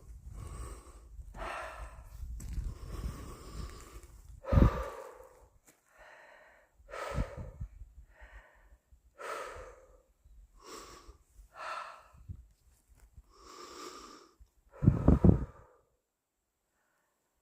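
A person's heavy, wheezy breathing: breathy exhalations every second or two, with two louder gusts about four and a half seconds in and near the end. It stops shortly before the end.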